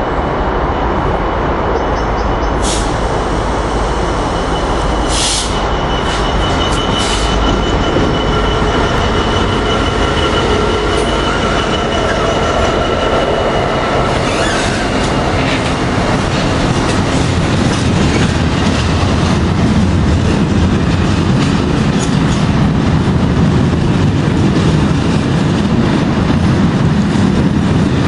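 Class 66 diesel locomotives, with EMD two-stroke V12 engines, hauling an engineering train past at close range: engines running and wheels rolling with a clickety-clack. There is a steady high squeal over roughly the first half, and a low rumble grows stronger in the second half.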